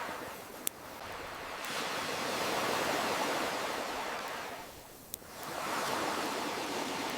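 Waves washing in and drawing back, the surf swelling and fading in slow surges, with two sharp pops from a crackling campfire, one near the start and one about five seconds in.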